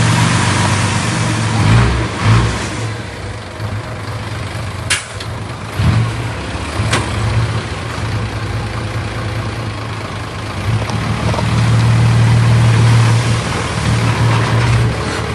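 Heavy diesel engine of earthmoving machinery running under varying load, louder for a couple of seconds about twelve seconds in. Two sharp knocks sound about five and seven seconds in.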